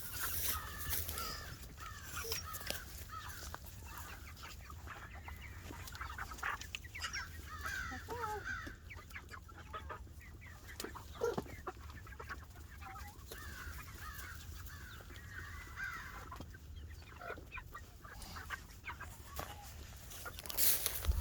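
Cornish cross meat chickens calling: a long run of short, repeated calls, with scattered faint clicks among them.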